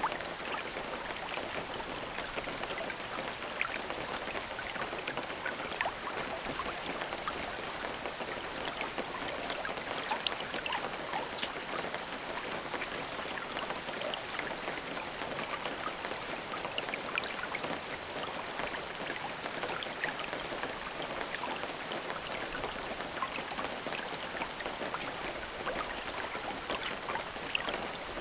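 Steady rain falling: an even hiss with many small, distinct drop ticks scattered through it, and no thunder.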